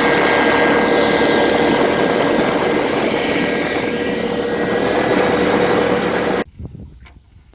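Swamp buggy's Loncin engine running loudly and steadily with a constant whine. It cuts off suddenly about six seconds in, leaving only faint knocks.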